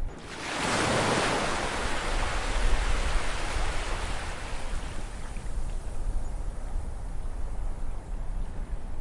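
Ocean waves: a wave breaks just after the start, surging to its loudest about a second in, then its rushing wash slowly fades over the next several seconds over a low rumble of surf.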